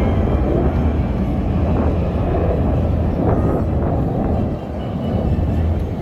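Jet engines of the Black Eagles' T-50B aircraft flying in formation, a loud steady rumble that eases slightly near the end.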